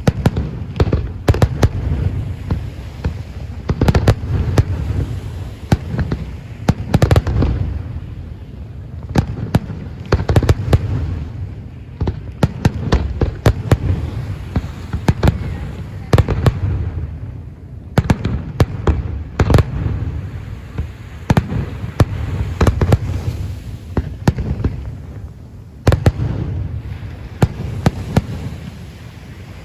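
Aerial fireworks display: a dense, irregular barrage of sharp bangs and deep booming reports, often several a second, over a continuous low rumble. The barrage thins out near the end.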